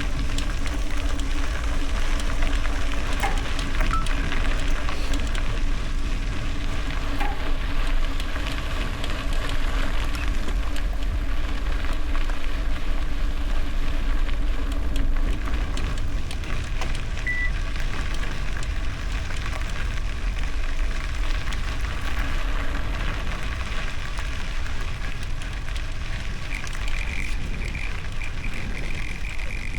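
Bicycle tyres rolling over gravel, a steady crackling crunch with low rumble and wind on the microphone.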